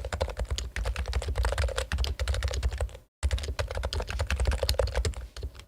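Rapid typing on a Topre Realforce keyboard, its electrostatic capacitive switches (rubber domes over springs) giving a dense run of keystrokes. The sound cuts out for an instant about three seconds in.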